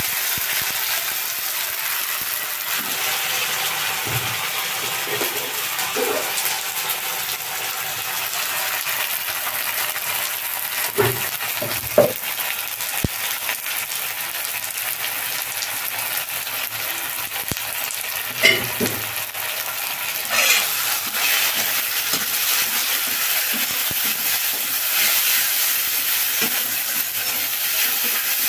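Chopped onions frying in hot oil in a kadai, a steady sizzle, with a spatula stirring and scraping them against the pan. A few louder scrapes stand out midway and again a little later.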